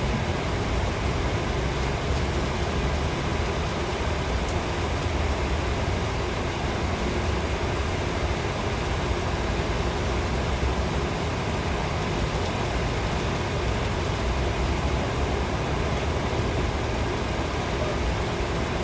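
Rain with wind buffeting the microphone: a steady hiss with an uneven low rumble.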